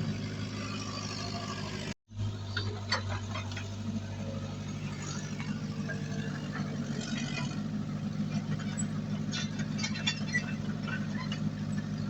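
Heavy diesel engine of earthmoving equipment running steadily, with scattered light clicks and knocks. The sound cuts out briefly about two seconds in, then the engine carries on.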